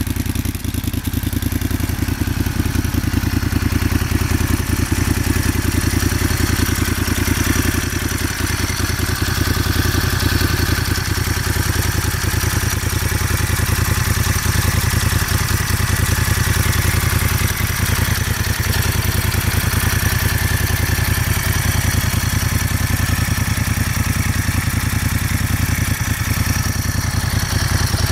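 Moto Guzzi Stelvio's transverse V-twin idling steadily through a GPR Gisa aftermarket exhaust, a deep, even pulsing that holds the same pitch throughout.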